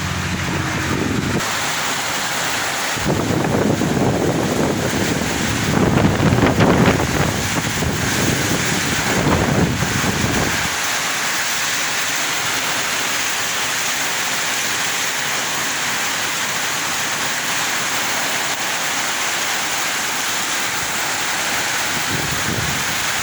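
Strong wind gusting and buffeting the microphone with deep rumbles for the first ten seconds or so, then settling into a steady rushing hiss.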